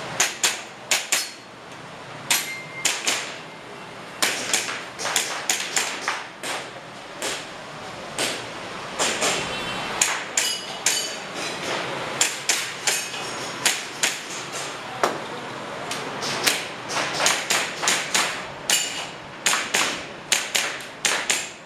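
Airsoft pistol firing a practical-shooting course: many sharp shots, often in quick pairs and short strings with brief pauses between them.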